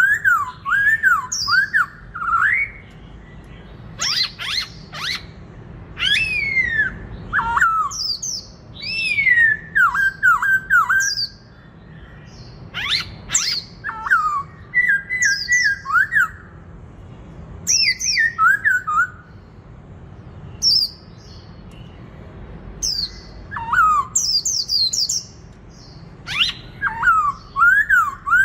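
Black-throated laughingthrush singing loud, clear whistled phrases: quick runs of rising-and-falling notes mixed with higher swooping whistles, broken by short pauses between phrases.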